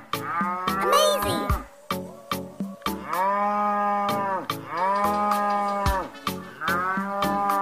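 Battery-operated toy cow's electronic moo, playing over and over, with a steady clicking about three times a second underneath.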